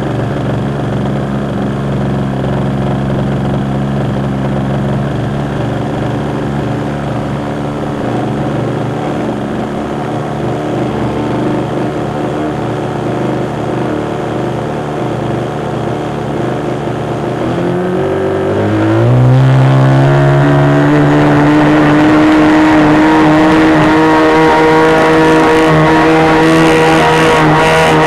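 RC model airplane engine running at a steady pitch, then about 18 seconds in it revs up, rising in pitch, and holds steady, louder and higher, at the new speed.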